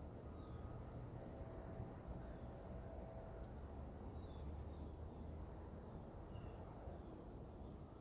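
Faint outdoor ambience: a steady low rumble with scattered short, high bird chirps.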